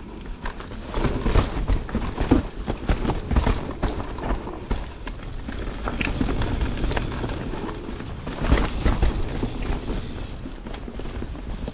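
Canyon Spectral 29 CFR full-suspension mountain bike riding down a dirt trail: tyre noise on the trail with a steady run of quick, irregular knocks and rattles from the bike as it goes over bumps.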